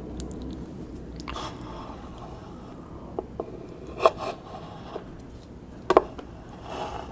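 Close-up eating sounds of mini buttercream chocolate cakes: soft chewing and scraping, with a few sharp clicks in the middle, the loudest two about two seconds apart.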